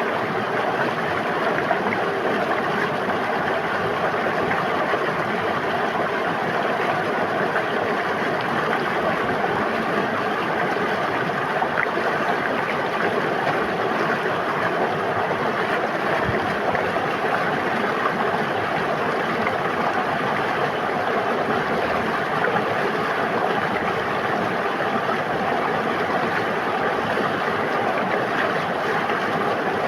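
River water flowing steadily, a continuous even rush with no breaks or separate splashes.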